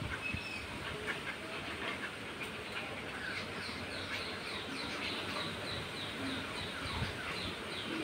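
Birds chirping outdoors, with a few scattered calls at first. From a few seconds in comes a steady series of short, high, falling chirps, about three a second.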